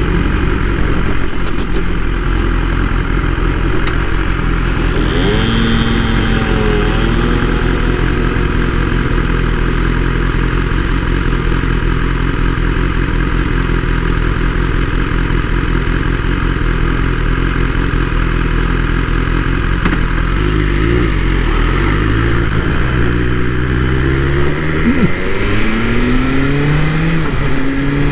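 BMW S1000R's 999 cc inline-four idling steadily in neutral, then revving as the bike pulls away from about twenty seconds in. Its pitch climbs, drops back at an upshift, and climbs again.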